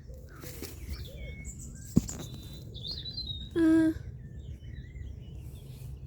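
Small birds chirping and calling in short scattered phrases over a low rumble. There is a sharp click about two seconds in, and a brief loud pitched sound, the loudest thing here, a little after three and a half seconds.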